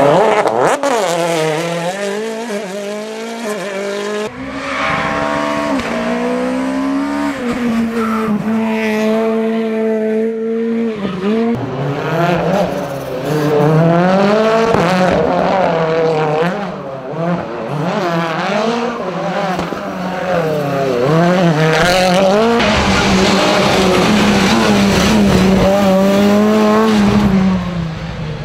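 Rally car engines revving hard, climbing and dropping in pitch over and over through gear changes and braking, with tyres squealing.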